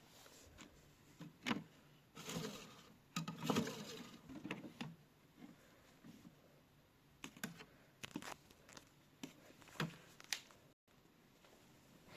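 Scattered small clicks and short rustling bursts from a toy washing machine, busiest a couple of seconds in, with a few more sharp clicks near the end.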